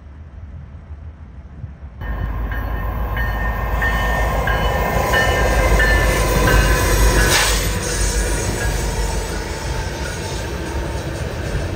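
Canadian National diesel-hauled freight train passing close by: a loud, steady rumble of locomotive engines and wheels on the rail, with short high tones repeating between about three and seven seconds and one sharp click about seven seconds in. For the first two seconds, before an abrupt cut, a departing train is heard fainter.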